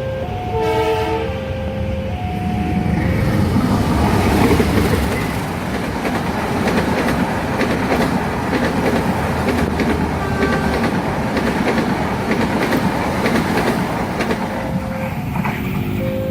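A level-crossing warning alarm sounding its alternating two-note tone, and a train horn blowing briefly about a second in. Then a fast train passes, its wheels clattering over the rail joints and drowning out the alarm, which is heard again near the end.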